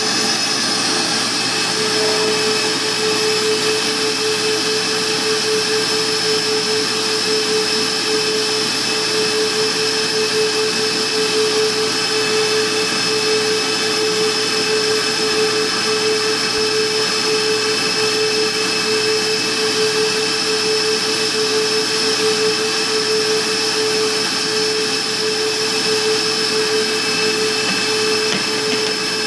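Single-phase Hurricane vacuum hold-down blower of a CNC router running steadily: an even, loud rushing noise with a constant hum tone and a thin high whine.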